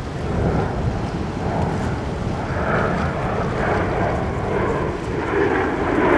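Rushing noise of Aermacchi MB-339 jets, growing louder near the end, mixed with wind on the microphone.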